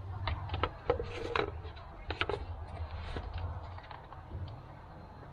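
A string of light clicks and knocks with brief scrapes, the small sounds of parts or containers being handled, over a steady low rumble.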